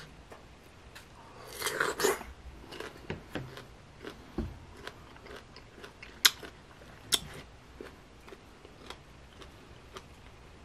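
Biting into a crunchy slice of unripe green mango about two seconds in, then chewing it with a run of sharp crunching clicks.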